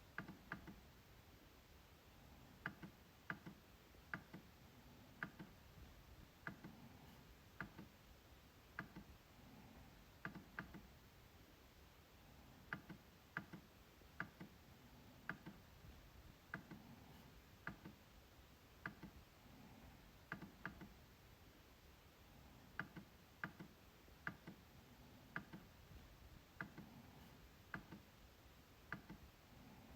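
MacBook trackpad being clicked: sharp clicks at an uneven pace, roughly one or two a second, often in quick pairs like double-clicks.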